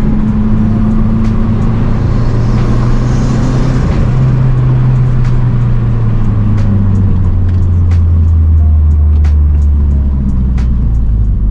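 Mazdaspeed3's turbocharged 2.3-litre four-cylinder, fitted with an aftermarket intake, cat-back exhaust and race pipe, running under way as heard from the cabin. A brief hiss comes just before the engine note steps up about four seconds in, and then the pitch slowly falls as the revs drop.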